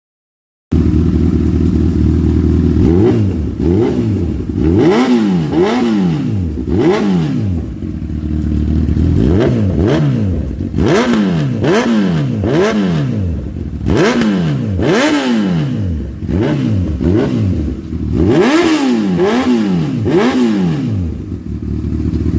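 Honda CB1000R inline-four engine, heard through its exhaust, being blipped from idle again and again: each rev rises and drops back quickly, coming in clusters of rapid blips with short spells of idling between.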